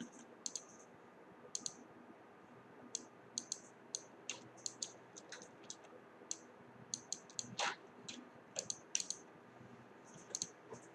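Irregular light clicks and taps of small hard objects being handled, with one fuller, longer knock or scrape about two-thirds of the way through.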